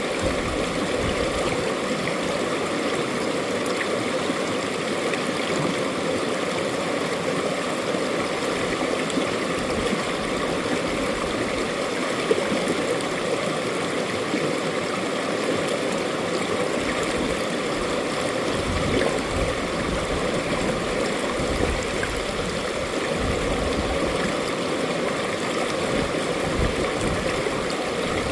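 Mountain-valley stream flowing over rocks, a steady rushing and gurgling of water with no change.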